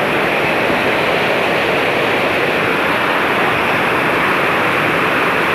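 Heavy rain pouring down, a steady, loud rush of water.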